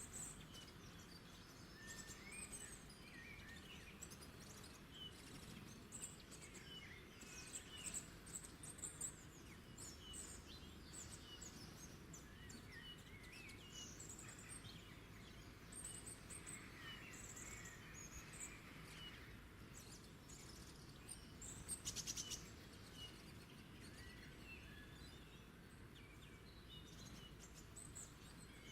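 Faint birdsong: several small birds chirping and twittering in short high calls scattered throughout, with one brief rapid trill about two-thirds of the way through, over a steady low background hum of ambient noise.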